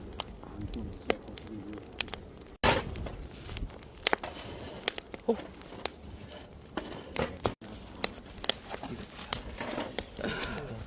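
Wood fire crackling with frequent sharp pops, with faint voices in the background.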